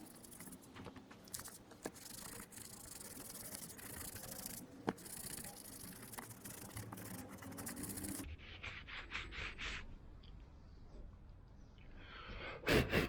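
Cloth rubbing and buffing dried silver polishing paste off a metal motorcycle part, a steady scrubbing hiss. After about eight seconds it turns into a run of short wiping strokes, with a couple of louder knocks near the end.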